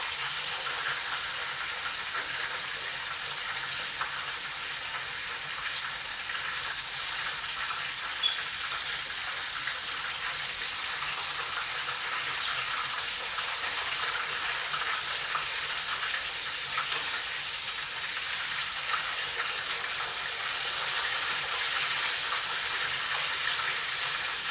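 Chicken thigh fillets frying in hot oil: a steady sizzle with scattered small crackles, and one sharp click about eight seconds in.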